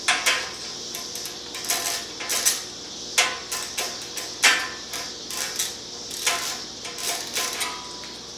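Metal hand tools clinking and tapping against the motorcycle's exhaust hardware: irregular sharp metallic clinks, some ringing briefly, while nuts and bolts are worked loose.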